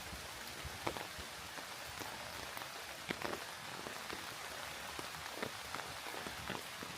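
Steady rain falling, a fine even hiss with a few louder individual drops striking close by.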